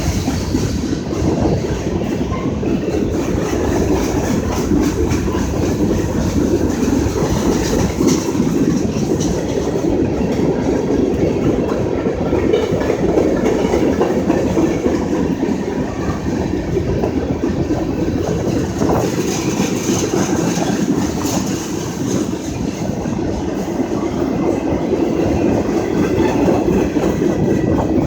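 Freight cars of a long manifest train rolling past close by: a loud, steady rumble with the clatter of steel wheels over the rail joints.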